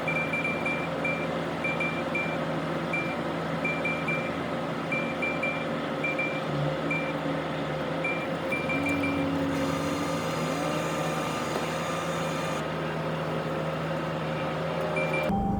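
Steady engine hum of an idling car, with faint short high beeps repeating unevenly.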